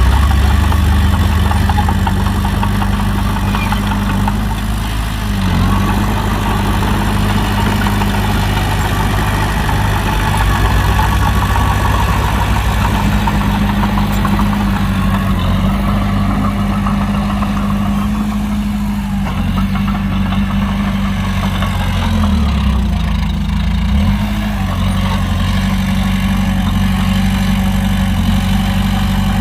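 Heavy diesel engine of a dump truck or bulldozer running steadily, its pitch dipping briefly a few times.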